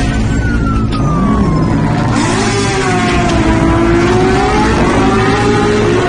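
Motor vehicle engine revving. Its whine falls in pitch over the first couple of seconds, then the pitch rises and dips as it revs, over a steady low hum.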